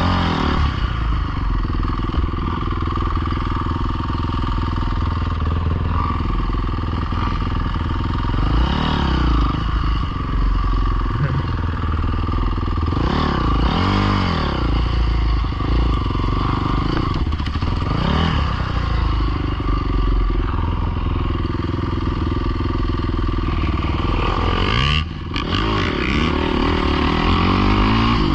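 Dirt bike engines running continuously, the pitch rising and falling several times as the throttle opens and closes or as bikes pass.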